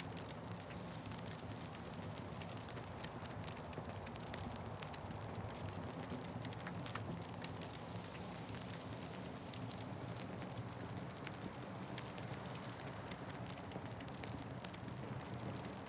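Wood fire crackling: frequent sharp pops and snaps, irregularly spaced, over a steady low rumble.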